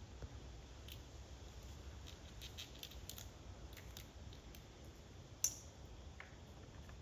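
Squirrel gnawing at a peanut shell: a run of small crunching clicks, with one sharper snap about five and a half seconds in.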